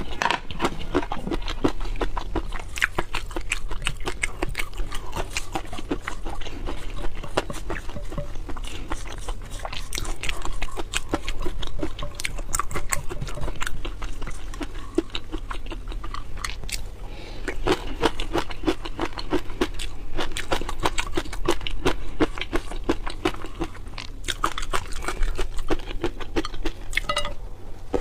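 Close-miked chewing and biting of seafood, with many quick crunches in rapid succession.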